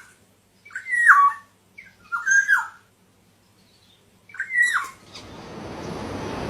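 Bird calling: three short whistled calls spaced about a second and a half apart, each sliding down in pitch. Near the end a rushing noise sets in and grows louder.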